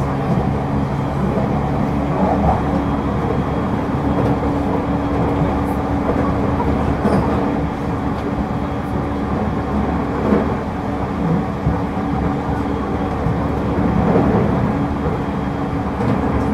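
Running noise heard inside a Tokyo Waterfront Area Rapid Transit 70-000 series electric train car (unrenewed, with Mitsubishi GTO-VVVF traction equipment) travelling at speed: steady wheel-on-rail noise with a steady motor hum. A low tone drops out about a second and a half in.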